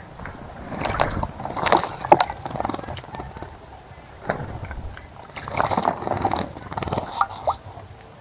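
Small birds splashing in a shallow bird bath, in two bouts of rapid wing-flicking splashes: one about a second in, the other from about five and a half seconds.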